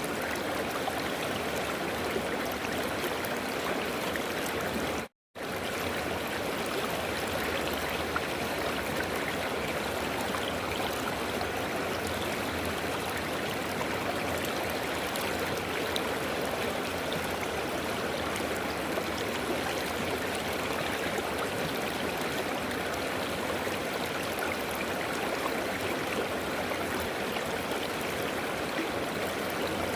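A river running: a steady rush of flowing water. It cuts out completely for a split second about five seconds in.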